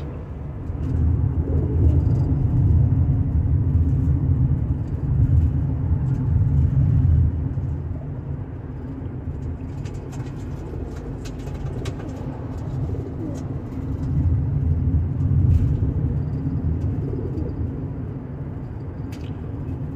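Steady low road rumble of a car driving, heard from inside the cabin, swelling louder twice, with homing pigeons cooing faintly.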